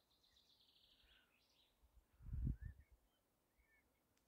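Faint wild birds singing: a quick trill of repeated high notes in the first second and a half, then a few scattered short chirps. A brief low rumble about two seconds in.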